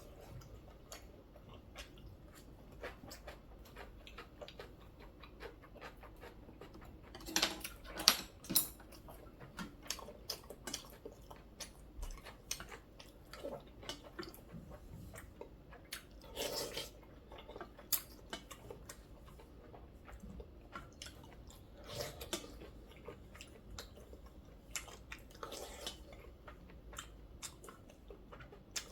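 Close-miked chewing and mouth sounds of a person eating, with many small wet clicks and a few louder bursts about a quarter, half and three-quarters of the way through.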